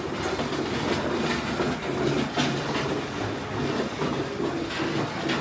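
Steady rumbling and rattling like a train running on rails, with scattered sharp clicks.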